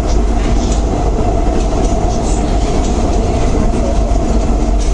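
Paris Métro train running: a steady, loud rumble with a constant mid-pitched tone and scattered light clicks of the wheels.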